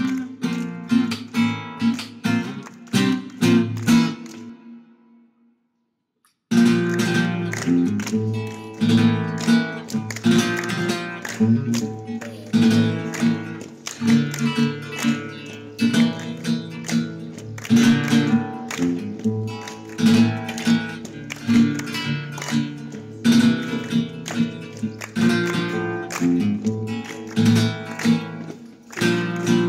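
Flamenco acoustic guitar playing, strummed and plucked with sharp attacks. It fades out about five seconds in, falls silent for a moment, then starts again suddenly.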